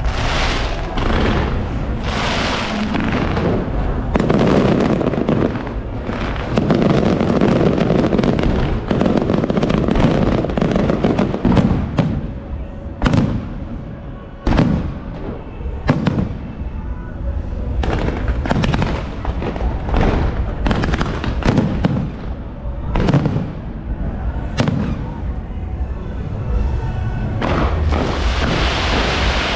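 Fireworks going off in quick succession: dense crackling mixed with sharp bangs, then separate loud booms every second or two in the second half, and a rising hiss near the end.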